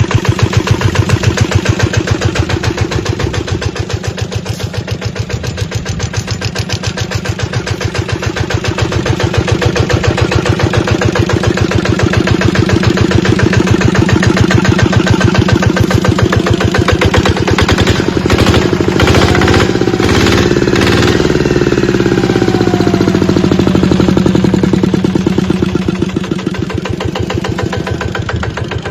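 Kubota RT100DI single-cylinder diesel engine of a walking tractor running with an even firing beat. About eighteen seconds in it revs up with a few sharp knocks, then its speed falls back over the next few seconds.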